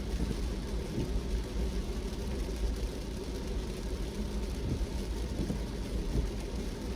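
Car being driven: a steady low rumble of engine and tyres on the road.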